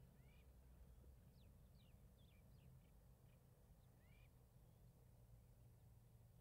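Near silence, with faint, quick bird chirps and upward-sweeping notes scattered through it over a low steady hum.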